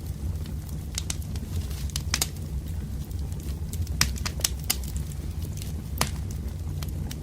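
Wood fire crackling: sharp, irregular pops and snaps over a steady low rumble of burning logs.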